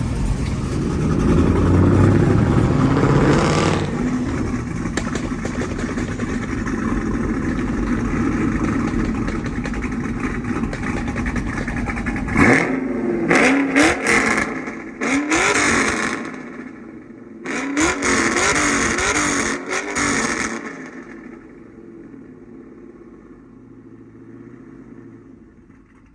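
Vehicle engines revving hard, pitch rising and falling, with a run of choppy revs about halfway through; the sound drops to a much lower level for the last few seconds.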